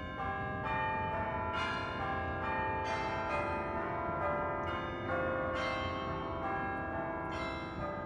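Bells struck one after another, about one a second, each note ringing on over the last in a bell-like melody.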